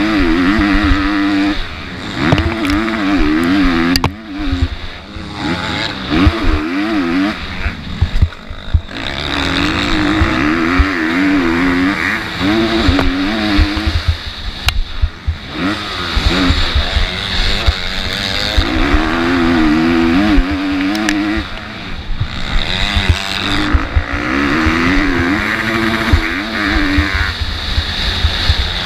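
MX2-class motocross bike engine revving hard, its pitch climbing and dropping in repeated runs of a few seconds as the throttle is opened and chopped around the track. Rumble and knocks thud on the microphone throughout.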